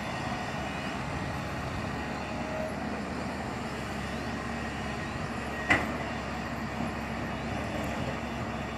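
Heavy machine's diesel engine, most likely an excavator's, running steadily. A single sharp knock comes a little past halfway and is the loudest moment.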